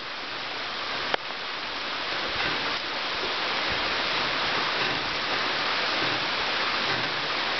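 Waterfall rushing: a steady wash of falling water that grows louder over the first few seconds, with a single sharp click about a second in.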